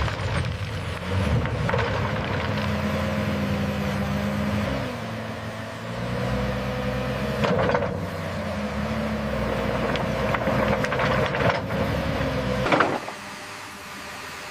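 Heavy bulldozer's diesel engine running under load, its pitch shifting a little, with sharp metallic clanks about two seconds in, near the middle and near the end. The engine sound stops near the end, leaving a quieter noise.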